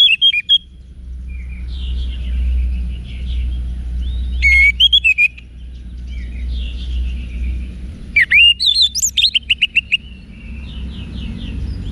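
Orange-headed thrush singing: loud bursts of quick, varied rising and falling whistles, about four and eight seconds in, with quieter song phrases between them. A steady low hum runs underneath.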